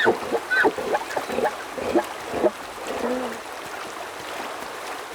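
Elk herd calling: many short, high chirps and mews, two or three a second, thinning out after about three seconds, over a steady rushing background.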